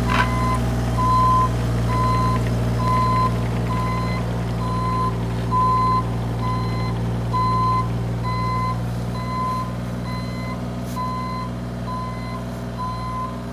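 Compact excavator's diesel engine running steadily while its travel alarm beeps at a regular pace, one high beep after another.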